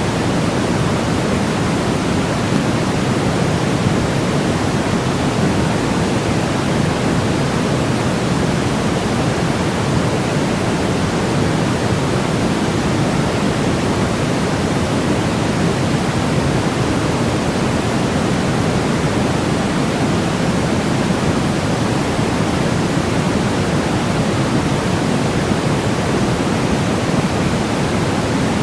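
Steady, unchanging synthetic sleep noise of the kind sold as white noise for babies: an even rushing hiss weighted toward the low end, deeper than a bright hiss.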